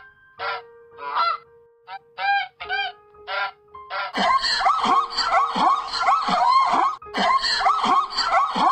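Domestic geese honking: single honks with short gaps between them, then from about four seconds in a dense run of overlapping honks, with background music holding a steady note underneath.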